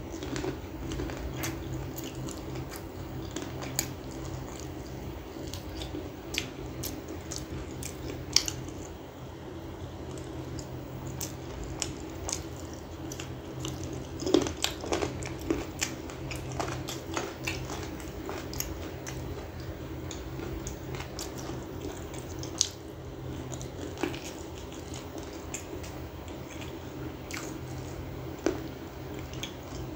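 Close-up chewing and biting on bony chicken pieces in gravy: wet mouth clicks, smacks and small crunches at an uneven pace, with the sharpest snaps about 14 seconds in. A steady low hum runs underneath.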